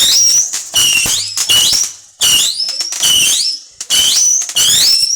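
Whistling fireworks going off in quick succession: about eight short shrill whistles, roughly two a second, each rising in pitch and then holding, over a steady hiss.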